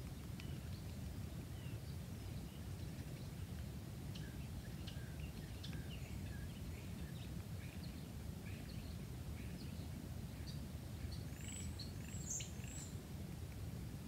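Small birds chirping and twittering in short, scattered calls over a steady low rumble, with a brighter, higher-pitched call near the end.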